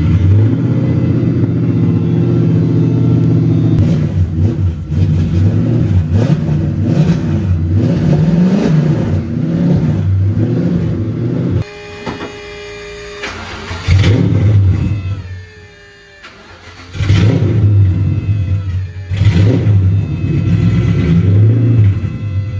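Nissan VH45DE V8 engine running and being revved, its note rising and falling. It drops away sharply about halfway through and again a few seconds later, then comes back up with more revving.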